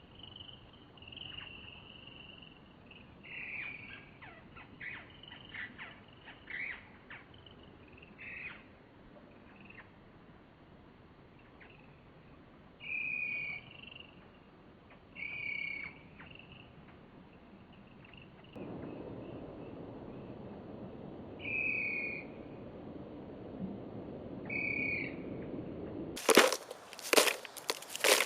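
Birds calling in short, slightly falling notes, sometimes in quick pairs, repeated every few seconds. About two-thirds of the way in a low steady hum sets in, and a few loud sharp knocks come near the end.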